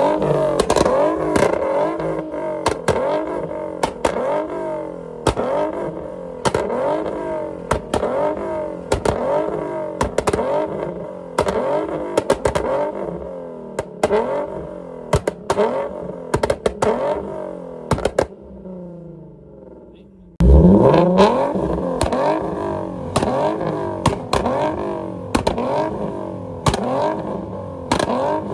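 Car engine revved hard over and over, its pitch climbing and falling in quick succession, with sharp exhaust pops and bangs between the revs as it shoots flames. The revving dies down about eighteen seconds in, then starts again suddenly and loud a couple of seconds later.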